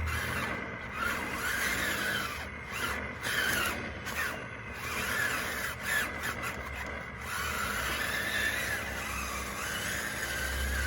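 DXR2 RC bulldozer at work: a high squealing whine that keeps rising and falling in pitch, over a scraping hiss.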